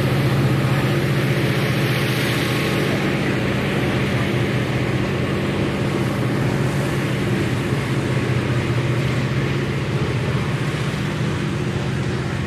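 Freight cars rolling past on the rails: a steady, continuous wheel-on-rail noise with a low steady hum underneath, easing slightly toward the end.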